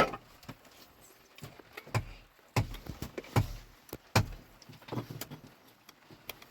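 A series of about a dozen irregular knocks and thuds, each sharp and short, some heavier than others.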